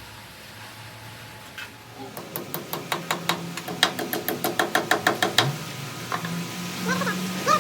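Fast, even run of metal-on-metal taps, about six a second for some three seconds, each ringing briefly, like a hammer working steel; a steady low hum follows, with a few short squeaky chirps near the end.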